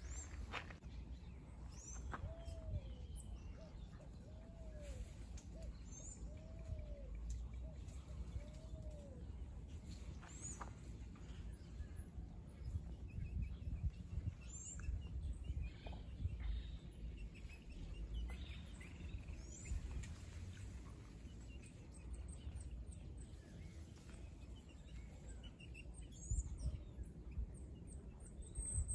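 Birds calling from roadside scrub: four low arched notes about two seconds apart in the first nine seconds, and thin high chirps scattered throughout. A steady low rumble runs underneath.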